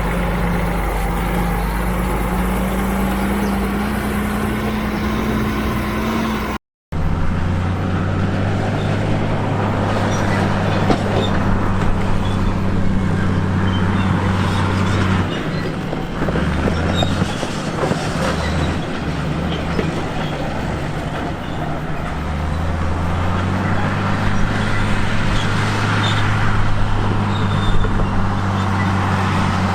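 Heavy diesel engines of earthmoving machines running, with a steady low engine note that wavers for a few seconds in the middle. The sound drops out for a split second about seven seconds in.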